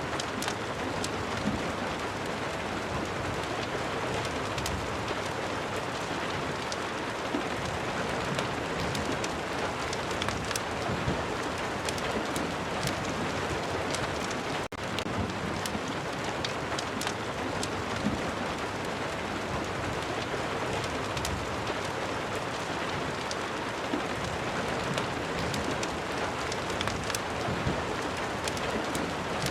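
Steady rain mixed with the frequent sharp crackles of a wood fire in a fireplace. There is a brief dip in the sound about halfway through.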